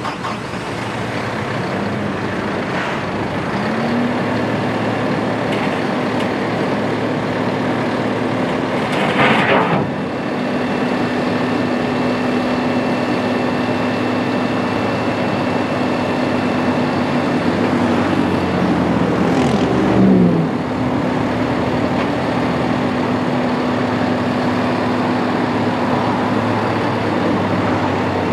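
Kubota M7-171 tractor's diesel engine running steadily, with a short hiss about nine seconds in and the engine note falling briefly around twenty seconds in.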